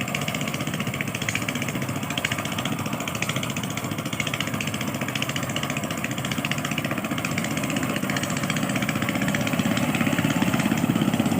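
An engine running steadily with a rapid, even pulse, growing somewhat louder over the last few seconds.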